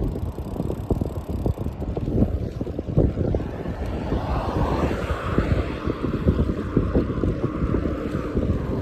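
Wind buffeting the microphone of a moving bicycle, a dense, uneven low rumble. A broader hiss swells for a couple of seconds around the middle.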